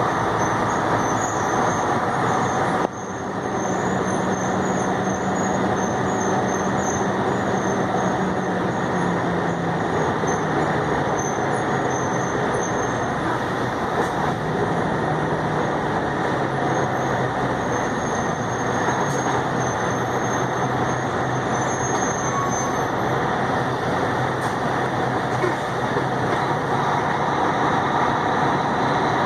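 A heavy truck's engine running while driving, with steady road and rumble noise. The engine note shifts pitch a few times, and there is a brief dip in loudness about three seconds in.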